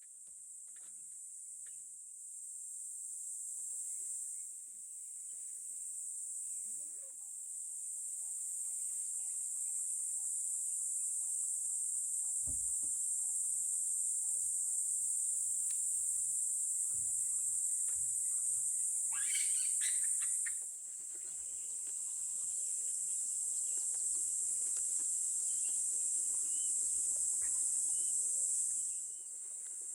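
A steady, high-pitched insect chorus that swells and eases several times. A brief, louder call cuts in about two-thirds of the way through.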